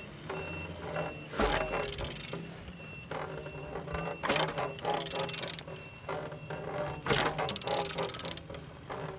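A used PHFA engine being turned over by hand with a wrench on the crankshaft: bursts of ratchet clicking and metal clanks as it rotates, showing the engine turns freely. A vehicle reversing alarm beeps about twice a second in the background and stops about two-thirds of the way through.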